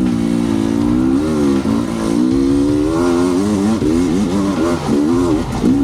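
Husqvarna enduro dirt bike engine revving under throttle, its pitch fairly steady for about a second and then rising and falling again and again as the rider works the throttle, with quicker swings in the second half.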